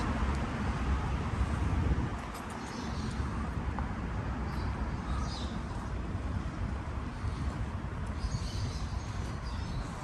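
Outdoor street ambience: a low rumble of passing road traffic that eases off about two seconds in, with small birds chirping briefly several times over it.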